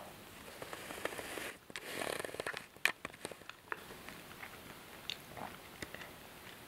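Close-miked chewing and mouth sounds from a person eating: scattered wet clicks and smacks, with a denser rush of noise between about one and three seconds in and one sharp click near the middle.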